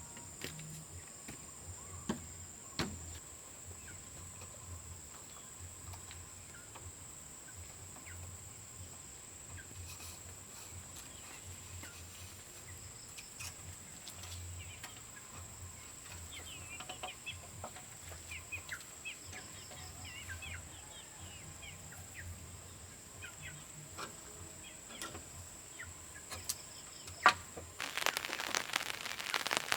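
Chickens clucking, with a steady high-pitched hum and scattered short chirps; a loud rushing hiss starts near the end.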